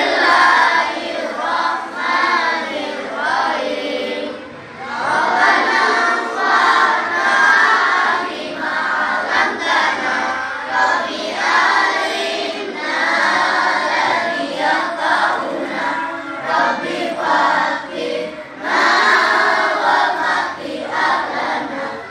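A class of children chanting a prayer together in unison, in a sing-song recitation of long phrases with short breaks about four seconds in and again near the end.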